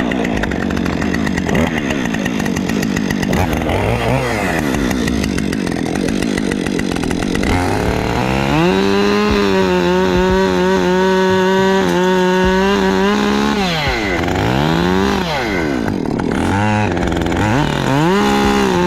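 Husqvarna 365 two-stroke chainsaw running and cutting wood. About eight seconds in, it revs up and holds a steady high pitch for several seconds, then drops back and is revved up twice more near the end.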